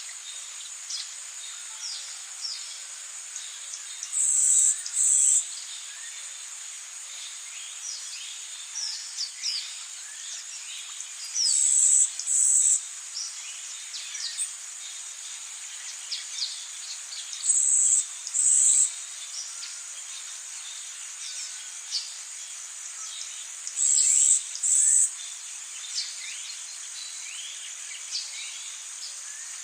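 Rainforest ambience: a steady high-pitched insect drone with a louder double buzz about every six seconds, and many short bird chirps scattered through it.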